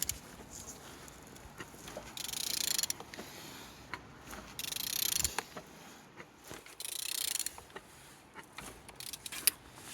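Used car engine being turned over by hand: three rasping mechanical strokes about two seconds apart with scattered clicks, the engine turning freely.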